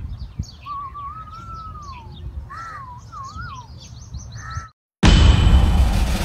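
Several birds chirping, with a few wavering whistled calls, over a low steady rumble. About five seconds in the sound cuts out briefly and loud music starts.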